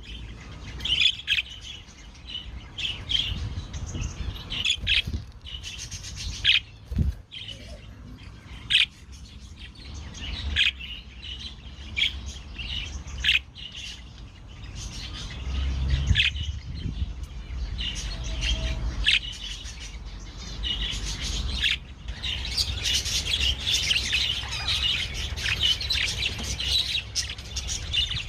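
A flock of budgerigars chirping and chattering, with sharp clicks scattered through. The chirping grows denser in the last few seconds.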